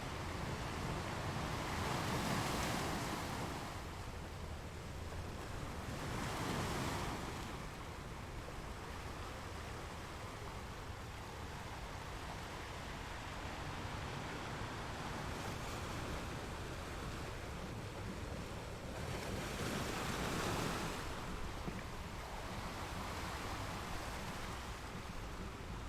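Sea waves washing in a steady rush, with three louder surges: about two seconds in, about six seconds in, and about twenty seconds in.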